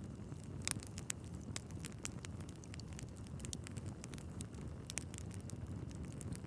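Wood fire burning in a fireplace: a steady low rumble of flames with frequent sharp crackles and pops from the logs, two louder pops under a second in and about five seconds in.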